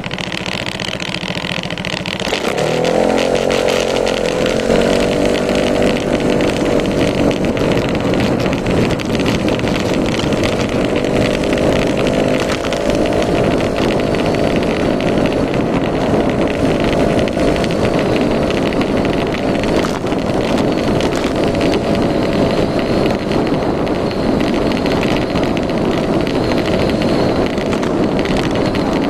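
Yamaha Majesty S 155 scooter's single-cylinder engine running. About two seconds in it speeds up quickly and gets louder, then holds a fairly steady pitch that creeps slightly higher for a while.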